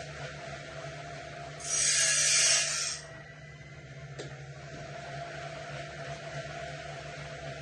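Woodland Mills bandsaw blade sharpener running with a steady motor hum. About two seconds in comes a loud hissing, rasping grind lasting just over a second, and later a faint click.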